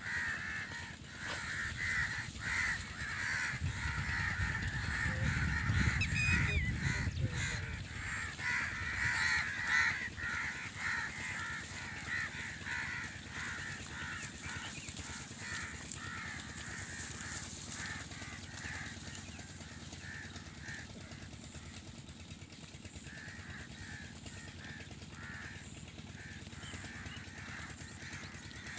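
Birds calling over and over in a rapid run, several calls a second, loudest in the first ten seconds and fading toward the end. A low rumble comes in about four to eight seconds in.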